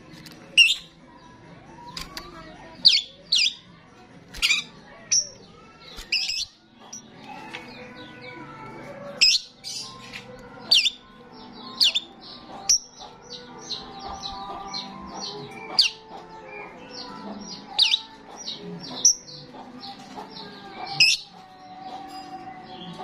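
Starling singing in full voice: loud, sharp whistled notes one after another, with a quick run of short chirps in the middle stretch.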